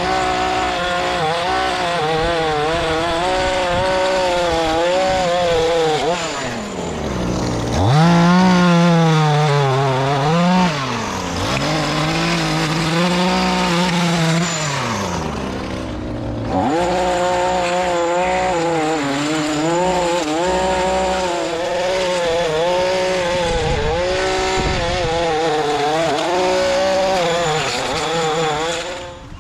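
Lawn mower engine running while cutting grass, its pitch sagging and then recovering a few times as the load changes.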